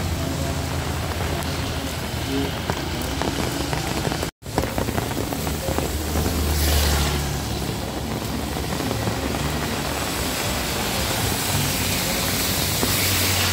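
Heavy rain falling steadily, with the low rumble of vehicles passing on a wet road, one swelling about six to seven seconds in. The sound cuts out for an instant about four seconds in.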